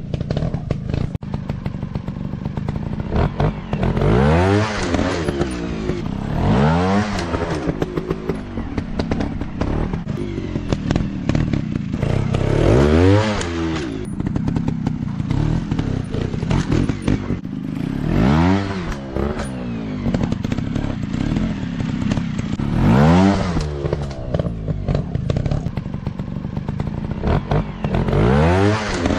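Dirt bike engines running, with the revs swinging up and back down about six times as the throttle is worked, over a steady engine drone, with some clatter and thumps.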